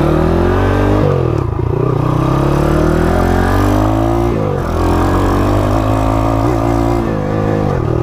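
Single-cylinder 140cc four-speed engine swapped into a Honda CT70 mini bike, ridden hard through its lawnmower-type muffler. The revs climb, drop sharply about a second in and again about four seconds in, climb again each time, and ease off near the end.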